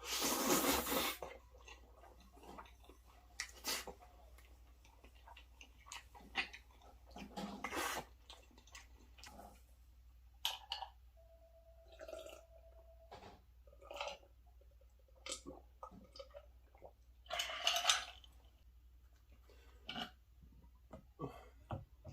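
Close-miked wet chewing and lip-smacking of a person eating creamy Alfredo pasta, with many small clicks and a few louder slurping bursts: one at the start, one near four seconds, one near eight seconds and one near eighteen seconds.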